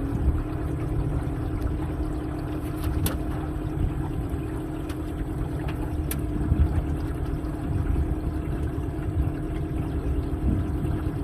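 A small boat's outboard motor running steadily: a low rumble under an even hum.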